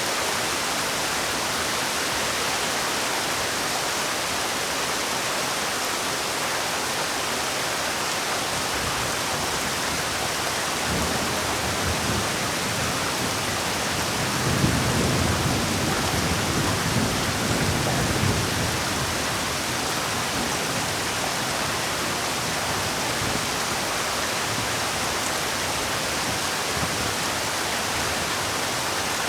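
Heavy rain falling steadily, a dense even hiss, with a low rumble that swells and fades about halfway through.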